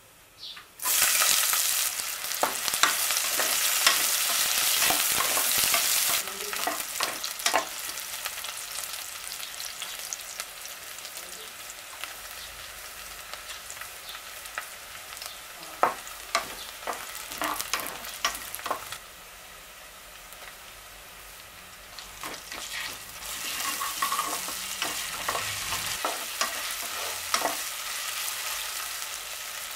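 Food sizzling in hot oil in a cooking pot, stirred with a spatula that clicks and scrapes against the pot. The sizzle starts loudly about a second in, falls off after about six seconds, and swells again in the last third.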